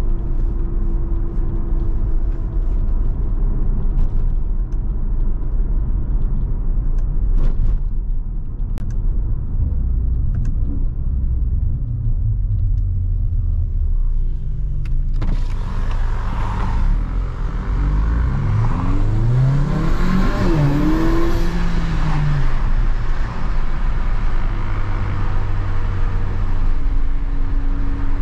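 Mercedes-AMG GLA 45's 2.0-litre turbocharged four-cylinder engine while driving, over a steady low road rumble. About fifteen seconds in the sound grows louder, and the engine note climbs in pitch and falls back under acceleration before settling to a steady cruise again.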